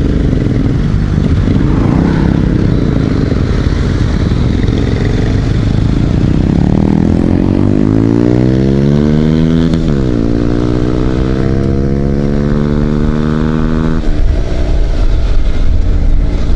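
Motorcycle engine pulling through the gears. Its pitch rises steadily, drops sharply at a gear change, climbs again and then falls away as the throttle closes. Heavy wind rush on the microphone runs under it all.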